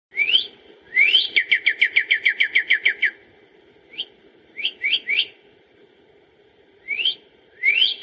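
A songbird singing clear whistled phrases: rising slurred notes, then a quick run of about a dozen short falling notes, a few single rising notes, and another rising phrase near the end.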